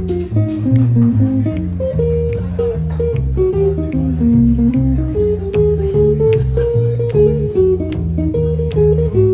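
A band playing an instrumental intro with no vocals: a guitar melody over a moving bass guitar line, with regular sharp ticks that keep time.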